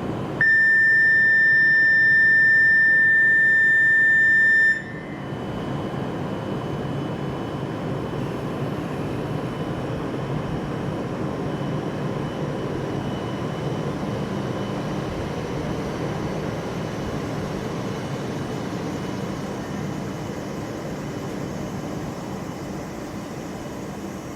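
Platform departure buzzer sounding one steady high tone for about four seconds, then stopping suddenly. Under it and after it, the departing Shinkansen train pulls out with a steady rumble that eases slightly near the end.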